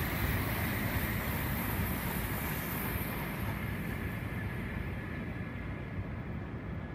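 Shinkansen bullet train running through on the tracks: a steady rushing noise whose high hiss fades away over the second half.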